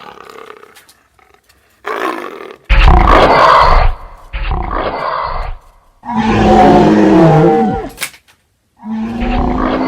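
Mock dinosaur roars and growls for a dinosaur puppet: about five separate bursts, the longest about two seconds.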